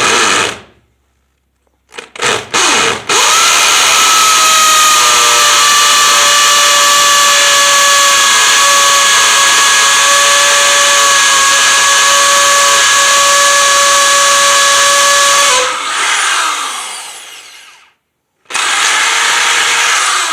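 Hammer drill boring a 3/8-inch anchor hole into a concrete slab. The trigger is blipped a few times to start the hole, then the drill runs loud and steady with a constant motor whine for about twelve seconds and winds down slowly. Another short run follows near the end.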